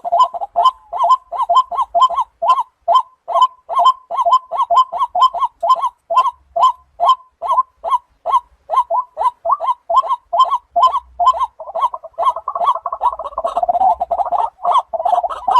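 Waterhen calling: a long run of short, loud croaking notes repeated about three to four times a second, crowding together into a denser, overlapping burst near the end.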